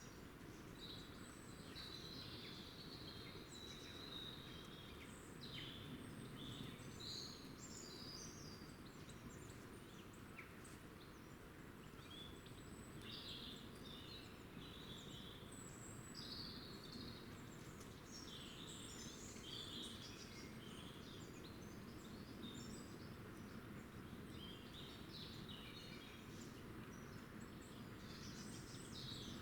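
Small birds chirping and twittering, many short calls overlapping throughout, faint, over a steady low background rumble.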